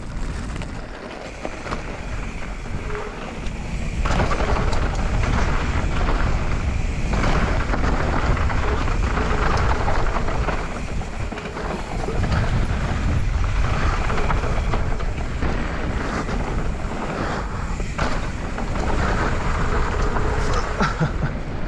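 A mountain bike ridden fast downhill: a steady rush of wind on the microphone, with heavy low rumble, tyre noise and short knocks and rattles from the bike over rough ground. It grows louder about four seconds in as speed picks up.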